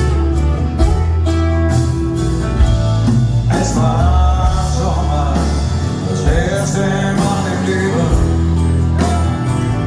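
Live rock band playing, with bass and guitars; through the middle a melodic line slides and bends in pitch.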